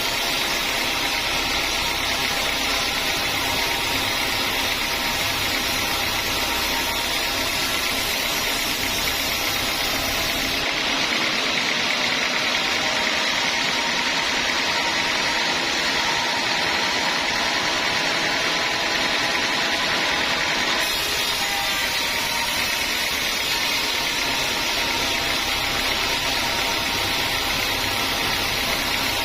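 Sawmill saw running steadily. About ten seconds in its sound changes abruptly, with less low rumble and less top hiss, then switches back about ten seconds later.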